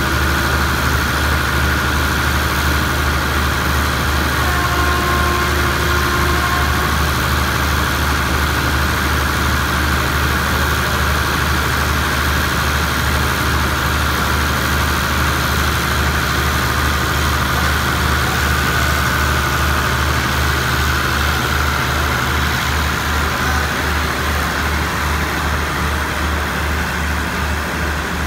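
Diesel-hauled express train standing at a station platform, its engines running with a steady low hum and a constant high-pitched whine. In the last several seconds the train starts to creep forward, and the low hum takes on an even pulsing beat.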